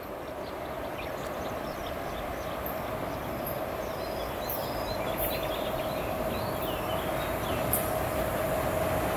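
HŽ class 1142 electric locomotive hauling passenger coaches as it approaches, its running growing steadily louder with a steady hum. Birds chirp.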